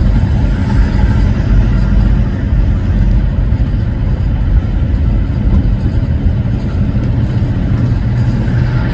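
Semi truck's diesel engine and road noise, a steady low rumble.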